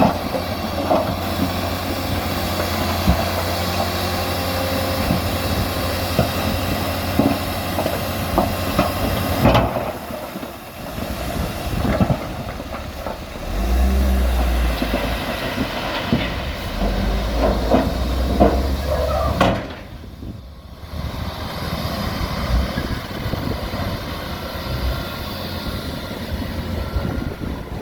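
Heavy diesel machinery, a bulldozer and a truck, running hard, with a low engine rumble and frequent metal clanks. The sound drops off abruptly about ten seconds in and again about twenty seconds in, then picks up again.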